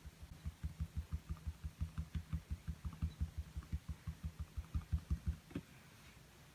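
Rapid, even tapping on a small canvas, about six soft, dull thumps a second, stopping about five seconds in, followed by a single sharper knock.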